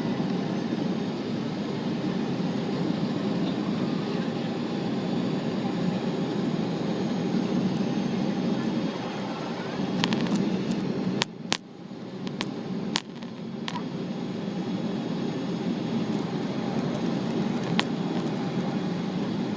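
Steady cabin roar of a Boeing 777-300 in flight, its engines and airflow heard from a seat over the wing. About eleven seconds in, the roar briefly drops and several sharp clicks sound.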